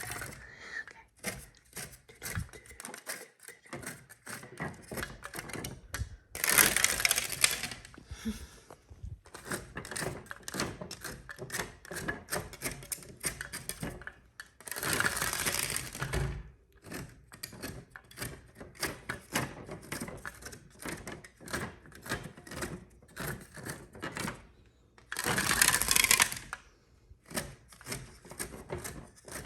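Close-miked ASMR tapping on objects, a quick run of light taps several times a second, broken three times by louder scratching that lasts a second or two.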